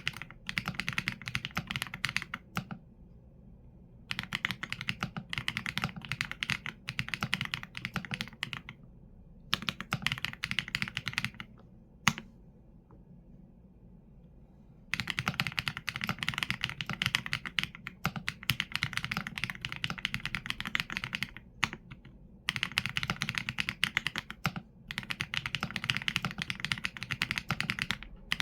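Typing on a Qsenn A75 mechanical keyboard with Leobog Graywood V4 linear switches and PBT keycaps: fast runs of key strikes broken by short pauses. Near the middle a single louder key strike is followed by about three seconds without typing.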